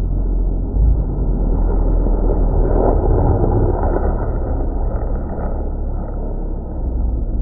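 A race car passing on the circuit: a rough engine and road rumble swells to a peak about three seconds in, then fades away.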